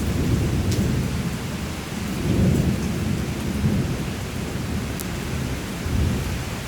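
Thunderstorm: rolling thunder rumbling low and continuously over steady rain, swelling a little about two and a half and six seconds in, with a couple of sharp ticks of drops.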